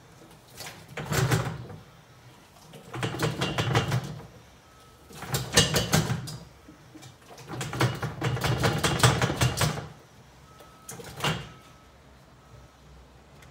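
Plastic drum of a Steele Mixer being rocked back and forth on its stand, the wet self-leveling mortar inside churning and the drum rattling with each tip. The sound comes in five bursts about two seconds apart, the fourth one longer.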